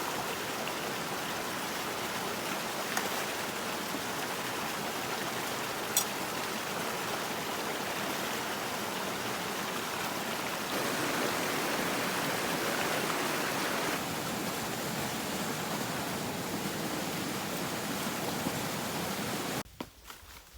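Steady rushing of flowing water, like a stream, with a sharp click about six seconds in; it cuts off abruptly near the end.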